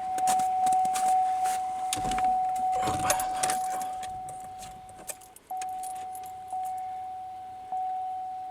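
Car keys jangling and clicking as they are handled, over the Pontiac Aztek's steady electronic warning chime, which is struck afresh three times in the second half.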